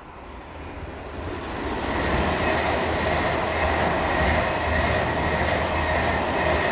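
A train passing close by: the rush of wheels on rail builds over the first two seconds, then holds steady and loud, with high-pitched whining tones over it.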